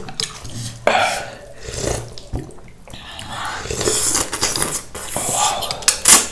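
Close-up mouth sounds of eating hotpot noodles and broth: wet slurping and chewing, with a few sharp clicks of utensils on the bowl near the end.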